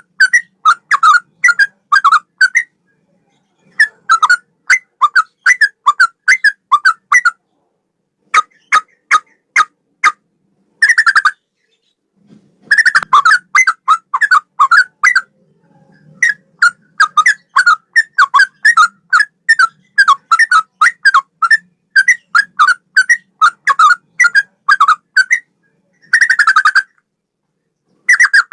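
Yellow-vented bulbul (trucukan) singing a cucak rowo-style song: loud phrases of quick, repeated whistled notes, about four or five a second, broken by short pauses. A few short, dense chattering bursts come in between the phrases.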